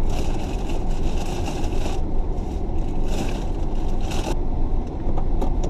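Car engine idling as a steady low rumble heard inside the cabin, with a paper food bag and sandwich wrapper rustling and crinkling in two stretches as the order is checked, and a few small clicks near the end.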